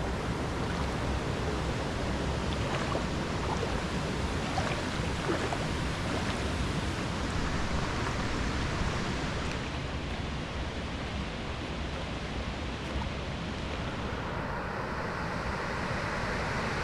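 Steady rushing of river water flowing over rocks, with the tone of the rush shifting about fourteen seconds in.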